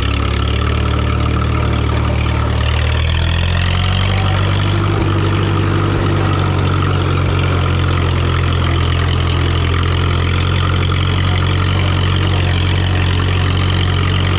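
1954 Minneapolis-Moline UBU tractor's four-cylinder engine, freshly tuned up, running steadily as the tractor drives in fourth gear. The engine speed rises about three seconds in, then holds even.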